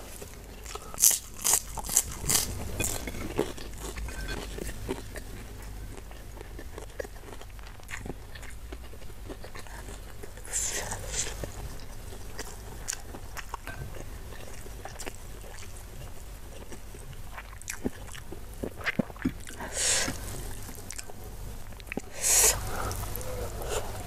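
Close-miked eating sounds: a person chewing a mouthful of rice and spicy beef, with soft wet mouth clicks and a few louder crunchy bites spread through.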